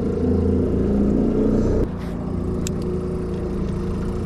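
Boat outboard motor running steadily; its note and level drop abruptly a little under two seconds in, then it runs on more quietly.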